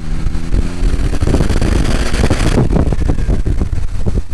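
Smart Roadster Brabus's small turbocharged three-cylinder engine pulling hard, its pitch rising in the first second, with loud wind buffeting the microphone in the open-top car.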